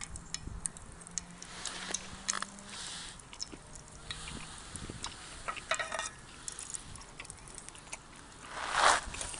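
Scattered light clinks and taps of kitchen utensils and dishes, with a brief louder rush of noise near the end.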